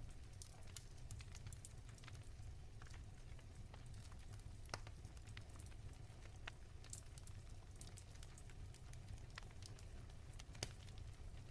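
Wood fire crackling softly: sparse, irregular snaps and pops over a low rumble, with two sharper pops about five and ten and a half seconds in.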